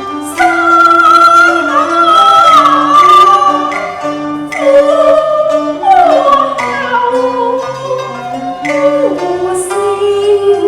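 Cantonese opera music: a high melody line that slides and bends between notes, over a plucked accompaniment of short separate notes and a held bass line.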